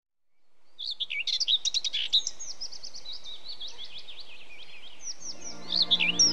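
Small songbirds chirping and twittering with quick, high notes over a faint hiss, fading in from silence in the first second. About five seconds in, soft sustained music chords come in underneath.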